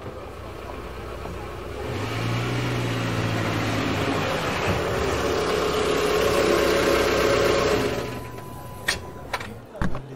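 Car engine running, swelling over several seconds and dropping away about eight seconds in, followed by a few sharp knocks near the end.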